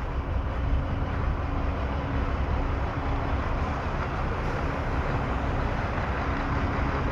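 Steady low rumble of vehicle engine noise with a faint steady hum.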